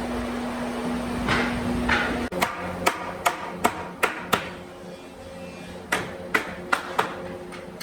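Hammer blows on wood, sharp knocks in two runs of about five, roughly three a second. A steady machine hum comes before them and breaks off abruptly about two seconds in.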